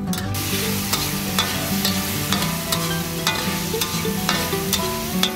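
Beans frying in hot oil in a black wok, sizzling, while a metal spatula stirs and scrapes them, clinking against the pan about twice a second.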